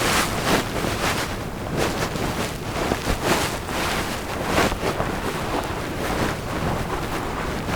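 Wind buffeting the microphone, an uneven rushing noise that swells and drops in gusts every second or so.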